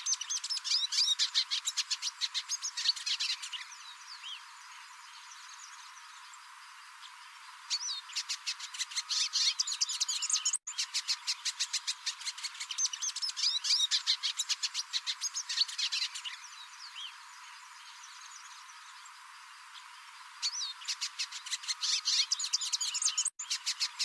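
A songbird singing in bouts of rapid ticking chatter mixed with warbled chirps, separated by pauses of a few seconds. The same song passage repeats about every 13 seconds, as a looped recording does.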